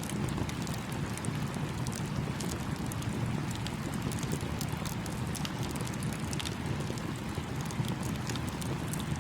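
Campfire crackling, with many small sharp pops scattered throughout, over the steady rush of a small stream.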